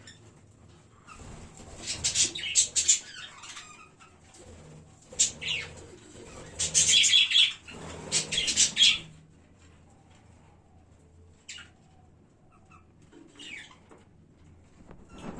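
A colony of budgerigars chirping, with bouts of wing flapping in loud bursts over the first nine seconds, then only scattered single chirps.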